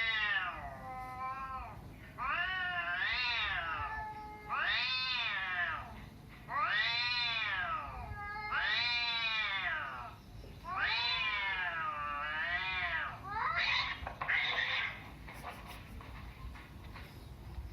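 A cat meowing over and over: a series of long, drawn-out meows, each rising then falling in pitch, about one every two seconds. They stop near the end.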